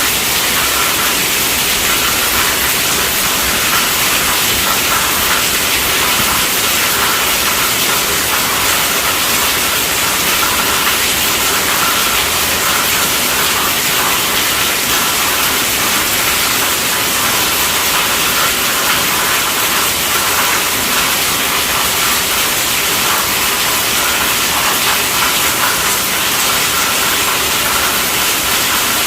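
Heavy rain falling on a tent roof: a steady, dense wash of drops that holds even throughout.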